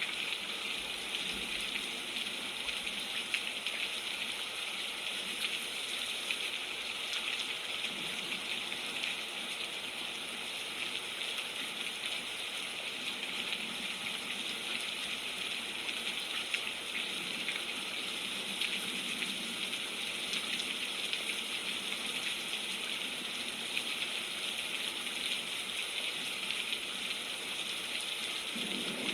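Steady rainfall, an even hiss of falling rain with fine patter and no breaks.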